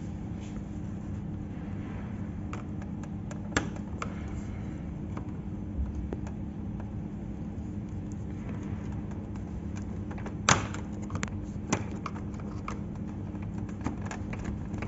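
Steady low hum of a powered-on laser printer, with a few sharp plastic clicks and knocks as the developer unit is handled and turned by hand to check its rotation. The loudest click comes about ten seconds in.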